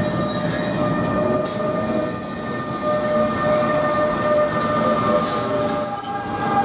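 Train wheels squealing on the rails as a train moves, a high-pitched screech of several steady tones over the running rumble, starting sharply at the outset.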